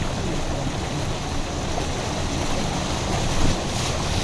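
Steady rushing and washing of floodwater as a car drives through a flooded street, mixed with low vehicle rumble.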